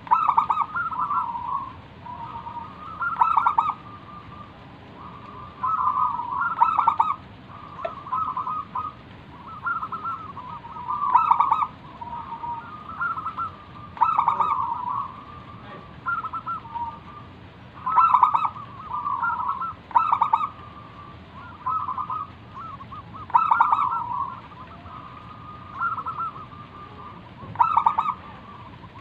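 Zebra dove (perkutut) in full song: phrases of quick staccato coos, a new phrase every two to three seconds.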